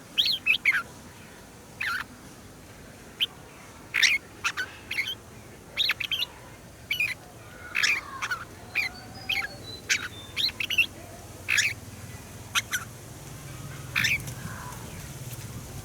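Red-whiskered bulbuls singing and calling: many short, sharp notes and brief phrases in quick succession, some overlapping. A faint low hum underneath grows slightly louder near the end.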